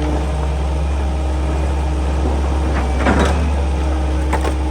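Excavator's diesel engine running steadily, with two short clanks about three seconds and four and a half seconds in.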